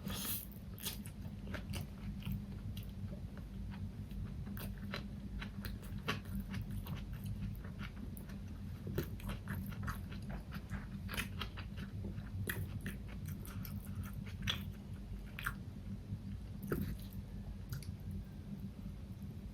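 Close-miked eating: a person biting and chewing food, with irregular crunches and wet mouth clicks, over a steady low hum.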